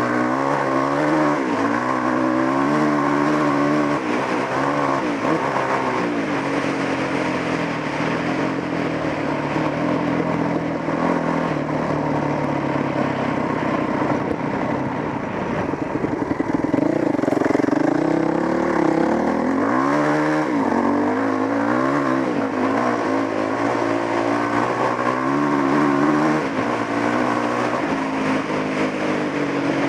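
Dual-sport motorcycle engine running under way, its pitch rising and falling again and again as the throttle is opened and closed and the gears change, over steady wind and road noise. The engine is loudest and climbs most sharply about two-thirds of the way through.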